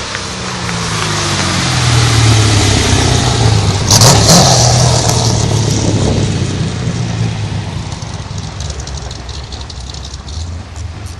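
Small-block Chevy V8 in a Mazda RX-7 running through a 2.5-inch X-pipe exhaust, revs rising over the first couple of seconds. It is loudest around four seconds in, with a brief rushing burst, then dies away steadily.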